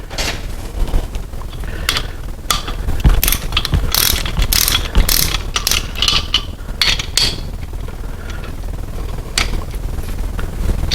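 Torque wrench ratcheting in quick runs of clicks as the main bearing cap bolts of a Chevy 350 are pulled down to 30 foot-pounds. The clicking thins out after about seven seconds.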